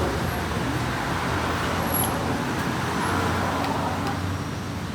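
Steady road traffic: vehicle engines and tyres running past in a continuous hum.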